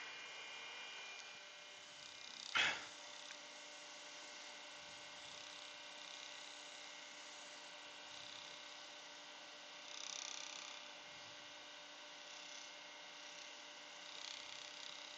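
Steady low electrical hum, with one brief sharp knock about two and a half seconds in and two faint soft swishes later on.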